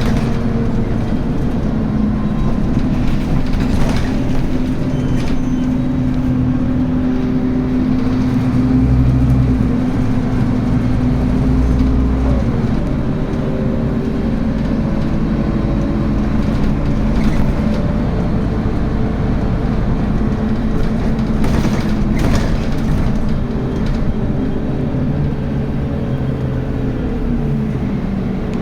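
Diesel engine and ZF Ecomat automatic gearbox of a Scania N280UB city bus running under way, the engine note stepping and sliding in pitch as it shifts and changes speed. A few sharp knocks or rattles come through.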